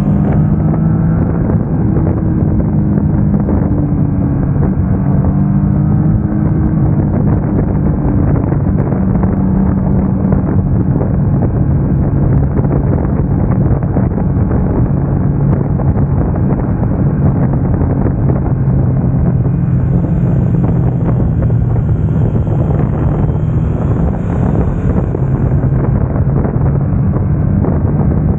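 Triumph Tiger Sport 660's three-cylinder engine running at a fairly steady speed under way, its pitch drifting slightly up and down, with wind buffeting the microphone.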